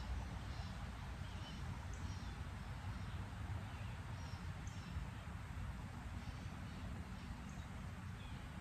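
Outdoor ambience: low wind noise buffeting the microphone, with a few faint, brief bird chirps now and then.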